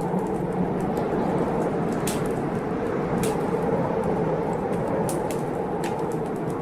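Heavy blizzard wind blowing steadily, with a wood fire crackling over it in scattered sharp pops.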